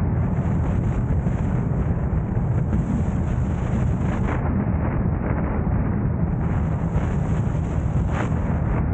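Steady low driving rumble of a moving car, road and engine noise mixed with wind buffeting on the camera's microphone.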